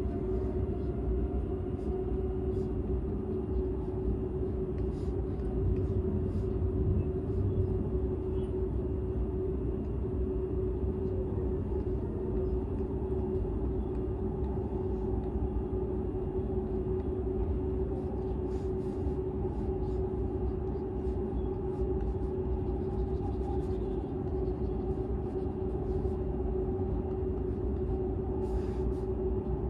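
Interior noise of a Seibu 001 series Laview limited express trailer car under way: a steady low rumble with a constant hum tone over it and a few faint light ticks.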